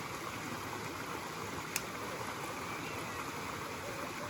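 Forest stream water running steadily over rocks, with one brief click near the middle.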